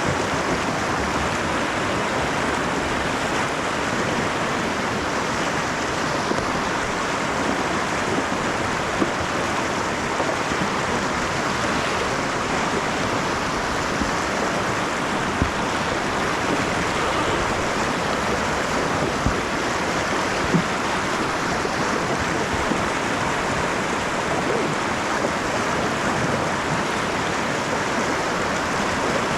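Snoqualmie River water rushing past a kayak: a steady hiss of moving current, with a few faint light knocks.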